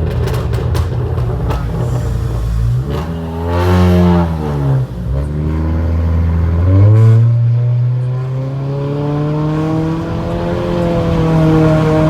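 Exhaust of a 2019 Honda Accord Sport's 1.5-litre turbocharged four-cylinder, run with a catless downpipe and no resonator or muffler. It runs low and steady at first, is revved up and back down once about three to five seconds in, then picks up again about seven seconds in and keeps slowly rising in pitch.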